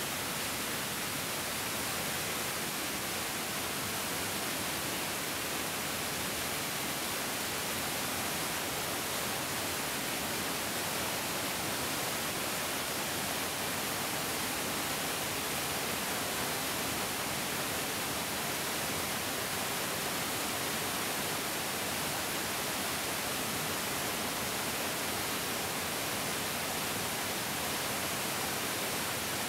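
A large mountain stream flowing: a steady, unbroken rush of water with a hissing edge and no changes.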